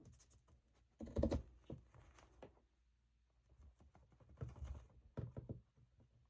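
Paper and craft tools being handled on a work table: scattered light taps and rustles, with the loudest cluster about a second in and another run of taps a little past the middle.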